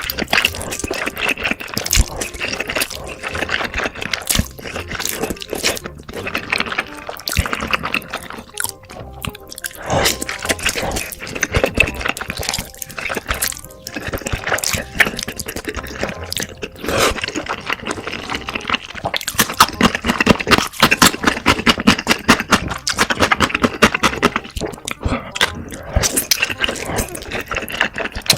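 Close-miked slurping and chewing of spicy black-bean noodles: wet, irregular smacks and sucking noises, with background music running underneath.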